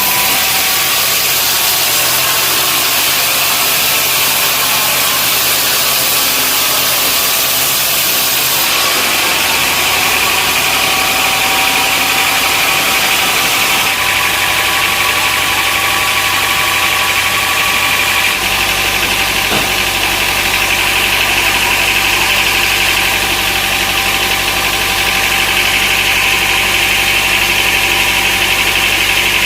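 Sawmill machinery running steadily: a motor hum with a high whine, changing character abruptly a few times.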